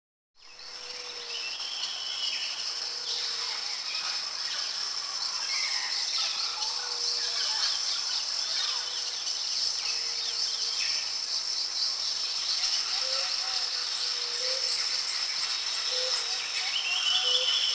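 Rainforest ambience that fades in just after the start: a steady high insect drone with scattered bird chirps and calls. A short low call repeats every second or two.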